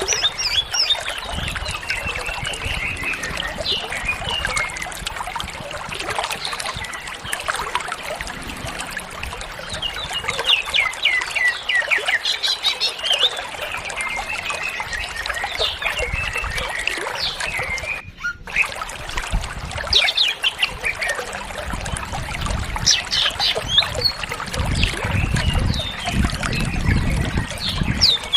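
Cucak ijo (green leafbird) singing nonstop, a rush of fast, varied chirps, trills and mimicked phrases in bursts of a few seconds. The sound cuts out briefly about two-thirds of the way through, and a low rumble sits under the song near the end.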